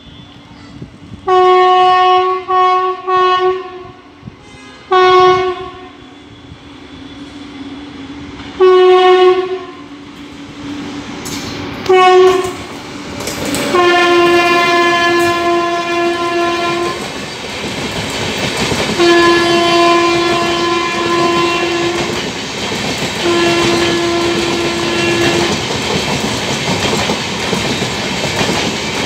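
An Indian Railways WAP-7 electric locomotive's horn sounds repeatedly as the train runs through the station without stopping: about six short blasts, then three longer ones as it passes. From about halfway in, the coaches pass at speed with a loud, steady rush of wheels on rail and clickety-clack.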